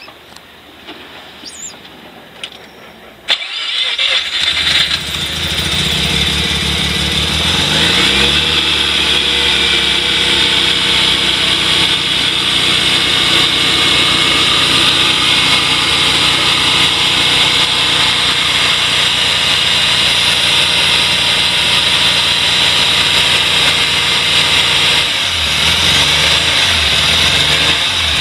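Mazda RX-7 FC3S's 13B twin-rotor rotary engine starting up suddenly about three seconds in, then running at a raised idle that settles to a steady idle, with small rises in pitch near the end.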